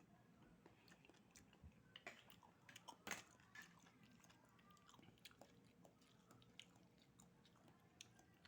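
Faint chewing and mouth smacks of a person eating cooked oysters: small wet clicks at irregular intervals, loudest about two and three seconds in.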